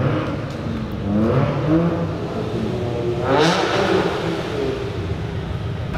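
Subaru Impreza WRX's flat-four boxer engine rumbling as the car rolls slowly past, its pitch rising and falling. About three seconds in it revs up sharply, then settles again.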